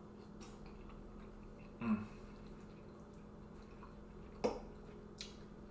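A person eating, over a faint steady room hum: a short voiced "mm" about two seconds in, then a couple of sharp clicks near the end.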